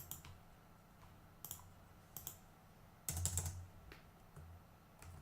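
Computer keyboard typing: a few scattered keystrokes, with a quick run of several a little after three seconds in, over a faint low hum.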